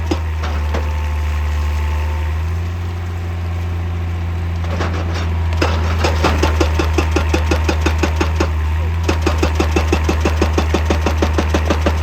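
Excavator-mounted hydraulic breaker hammering rock, about six blows a second, over the steady running of the excavator's diesel engine. The hammering is stopped for roughly the first five seconds with only the engine running, then starts again. It pauses briefly about nine seconds in before carrying on.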